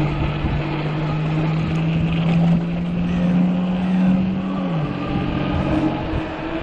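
The electric motor of a 48-volt fat-tire e-bike humming while it rides, its pitch creeping up slowly, then falling away about five seconds in, over wind and tyre noise.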